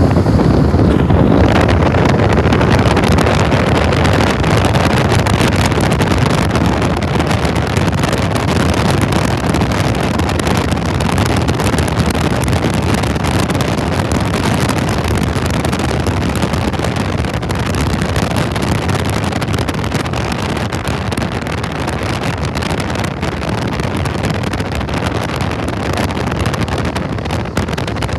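Freight train of autorack and covered hopper cars rolling past at close range: a steady, loud rumble of steel wheels on the rails that eases off slightly over the stretch, with wind buffeting the microphone.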